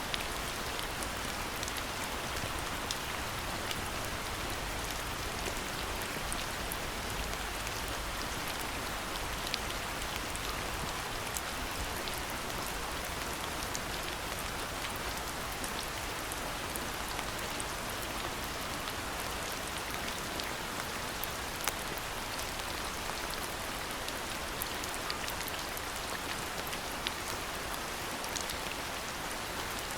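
Steady rainfall, an even hiss with many small drops ticking here and there.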